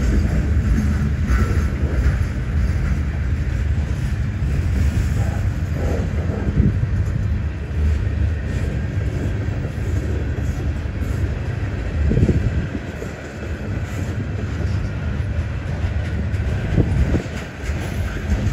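Freight cars of a long manifest train rolling past slowly at about 10 mph, a steady low rumble with a few louder clunks from the wheels.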